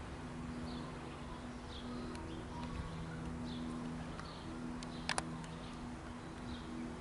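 Quiet railway-platform ambience: a steady low hum with faint bird chirps every second or so, and one sharp click about five seconds in.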